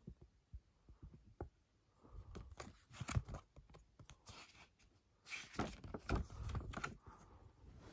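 CD packaging being torn open and crinkled by hand: a few light clicks and taps, then two bursts of rustling and tearing.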